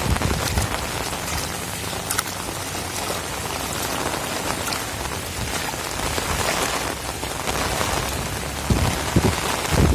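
Heavy rain pouring steadily, a dense even hiss of drops. Low rumbling surges near the end, typical of strong wind gusts.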